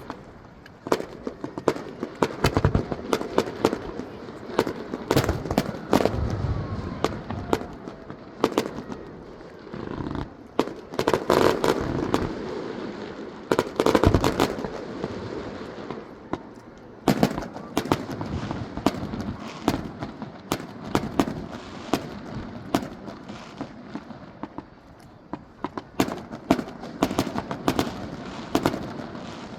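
Fireworks display: aerial shells bursting in a continual run of bangs and crackles, with a dense flurry near the middle.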